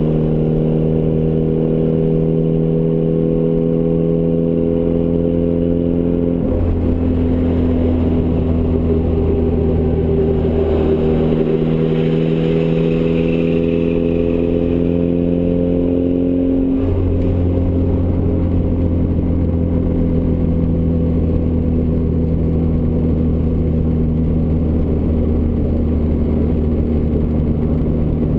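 Turbocharged Ford Escort ZX2's four-cylinder engine through a custom 3-inch side-exit exhaust, running under way with a steady drone. Its pitch creeps slowly upward and steps back down three times, about six, eleven and seventeen seconds in.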